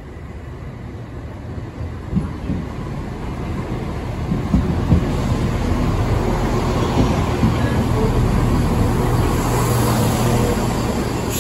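Chiltern Railways diesel multiple unit running into the station alongside the platform. Its engine hum and wheel rumble grow louder as the carriages pass close by, with a few thumps from the wheels on the rails. A brief high hiss comes near the end.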